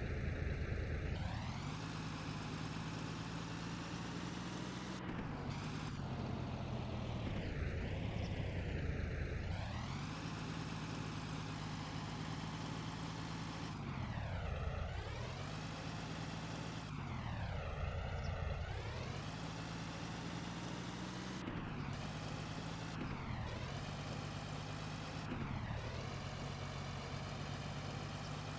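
Diesel tractor engine running steadily while pulling a trolley. Its pitch dips and rises again several times as the throttle eases off and picks back up.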